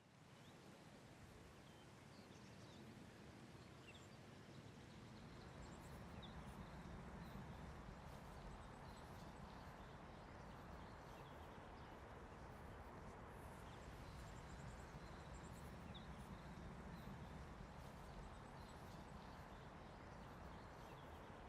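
Faint outdoor ambience fading in: a steady low background noise with scattered faint, short bird chirps.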